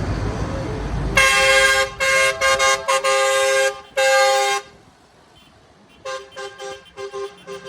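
A passing vehicle's two-tone horn blowing a string of loud blasts: one long blast, a run of quick short toots, then another long blast. A low engine rumble comes before it, and fainter toots follow near the end.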